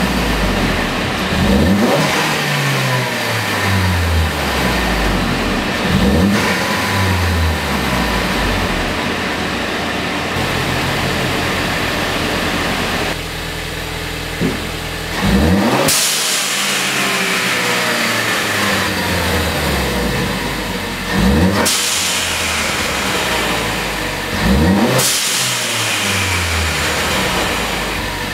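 Ford Focus ST's turbocharged 2.0-litre EcoBoost four-cylinder free-revved in short blips while standing, first with a Cobb drop-in air filter fitted. After a change to a Boomba blow-off valve, three revs each end in a sharp hiss as the valve vents boost when the throttle shuts.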